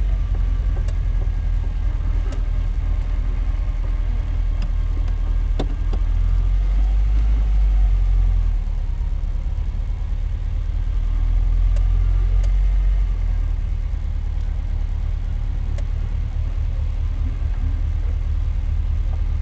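1980 Ferrari 308 GTB's V8 engine near idle, crawling along in first gear, heard from inside the cabin as a steady low rumble. A few sharp clicks stand out over it.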